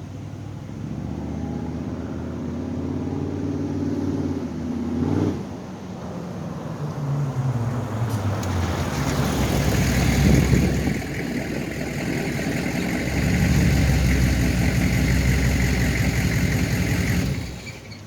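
A 6.5 L turbo diesel with a straight-piped exhaust revving and accelerating. Its pitch climbs for about five seconds, drops suddenly, and falls away. It then peaks loud around ten seconds and runs loud and steady with a high turbo whine over the exhaust, before cutting back near the end.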